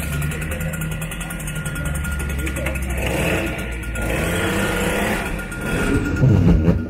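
A pulse jet engine mounted on a motorcycle running with a steady drone, swelling louder about six seconds in.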